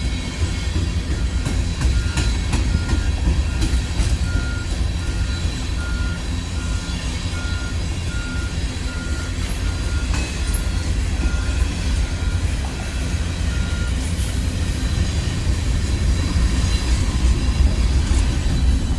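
Norfolk Southern freight train rolling past with a loud, steady low rumble and scattered wheel clicks. For most of the time a vehicle's back-up alarm beeps over it at an even pace, a little faster than once a second, and it stops about three-quarters of the way through.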